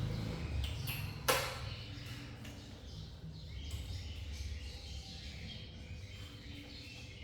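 Faint bird chirps over a steady low rumble, with one sharp knock about a second in.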